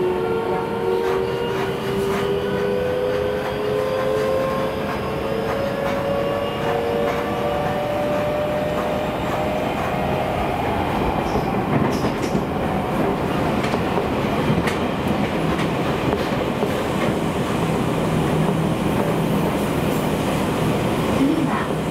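Seibu 9000 series electric train heard from inside the car under Hitachi IGBT-VVVF traction. The inverter and motor whine rises steadily in pitch as the train accelerates, then fades out about halfway through as power is shut off. That leaves the rumble of wheels on the rails, with occasional clicks.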